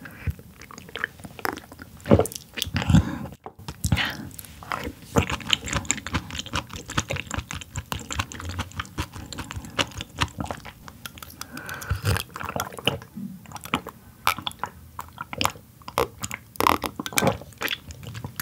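Close-miked chewing and biting of food, a dense run of irregular mouth clicks.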